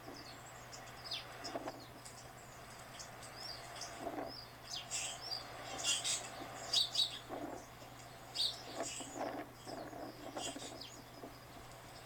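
Small birds chirping and twittering in many short, irregular calls, played back from a bird video for cats.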